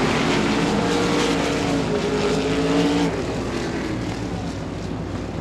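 RaceSaver sprint cars' 305 cubic-inch V8 engines running on the dirt oval, several engines together at a steady drone that drops slightly in pitch and fades a little near the end.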